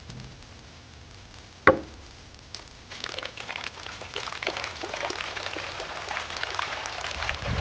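A single sharp crack, then a dense, irregular crackling patter of many small ticks that sets in about three seconds in and grows louder.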